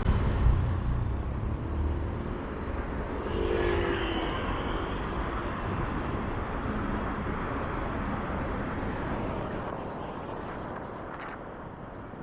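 City road traffic heard from a bike lane. A deep rumble is loudest at the start, like a heavy vehicle passing close, then it settles into a steady traffic hum that slowly fades.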